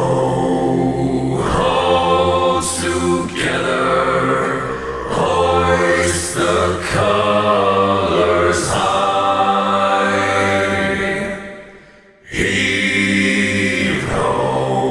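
Deep male voices singing a slow a cappella pirate chant over a steady low drone. The singing fades out and stops for a moment about twelve seconds in, then starts again.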